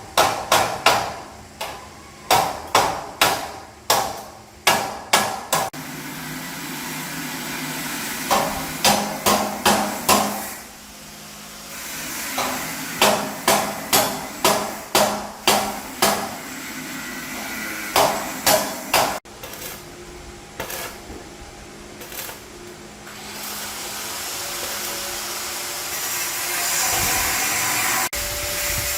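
Hammer blows on metal in quick runs of about two to three strikes a second, broken by short pauses, each strike ringing briefly. In the later part the strikes give way to a steady machine noise that grows louder.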